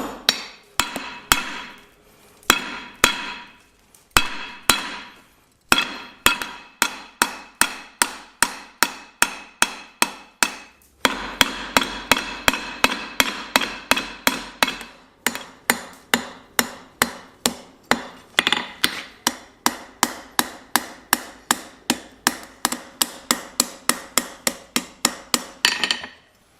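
Hand hammer striking hot steel on an anvil in a steady forging rhythm, about two to three blows a second, each blow ringing. There are a couple of short pauses. This is blacksmith hand forging.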